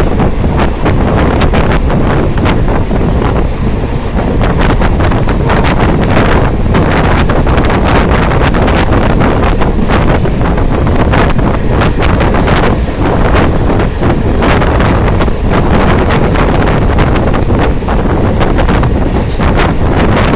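Strong wind buffeting the microphone: a loud, steady low rumble broken by constant crackling gusts.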